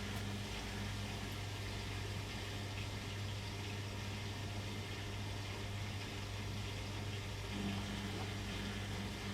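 Beko WM6255w washing machine running through a wash cycle: a steady low hum under a constant hiss. A second, higher hum drops out just after the start and returns about three quarters of the way through.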